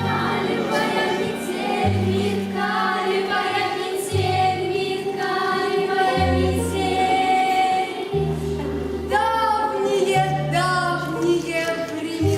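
Music: voices singing together as a choir over an instrumental accompaniment, with a low bass note that changes about every two seconds.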